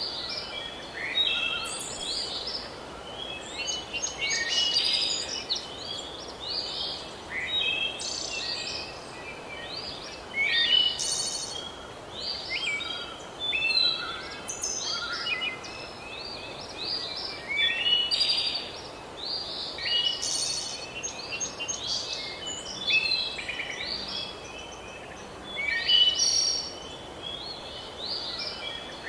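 Songbirds singing and chirping in quick, overlapping phrases over a steady faint hiss of outdoor ambience.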